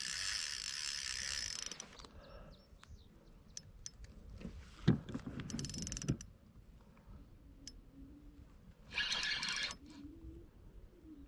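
Fishing reel's drag buzzing out in two bursts, one at the start lasting under two seconds and a shorter one near the end, as a big striped bass takes line. A sharp knock about five seconds in, with low thuds around it.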